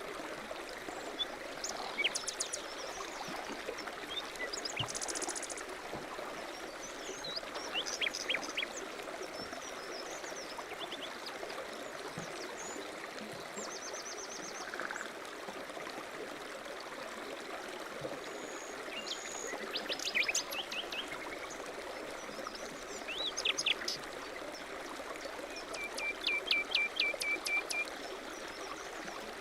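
A stream running steadily, with small birds chirping over it in short, rapid series of high notes every few seconds, the strongest about two-thirds of the way in and near the end.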